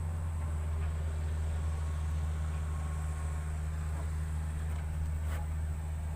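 A small engine running steadily: a constant low drone that does not rise or fall, with a few faint clicks over it.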